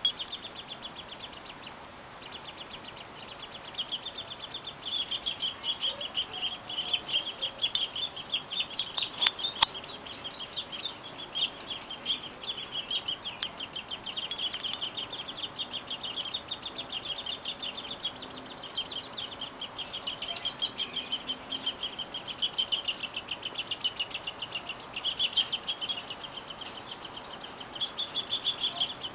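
Downy woodpecker nestlings giving their begging chatter from the nest, a rapid, continuous run of high chirps that swells and fades in bouts, louder from about five seconds in.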